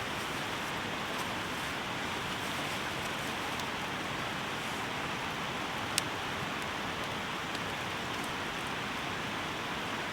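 Steady rain falling, an even hiss, with a few faint ticks and one sharp crack about six seconds in.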